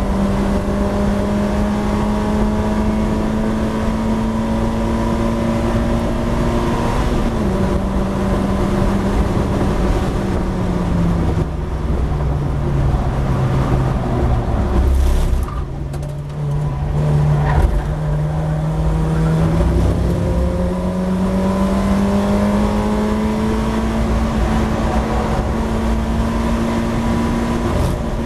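Race car's engine heard from inside the open cockpit at high revs. Its note falls as the car slows for a corner about halfway through, dips briefly, then rises steadily as the car accelerates back up through the revs, with a constant rush of wind and road noise throughout.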